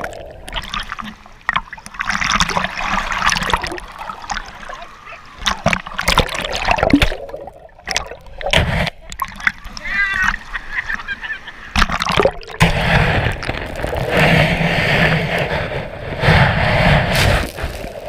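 Water splashing and sloshing in the sea, uneven and loud, with voices now and then.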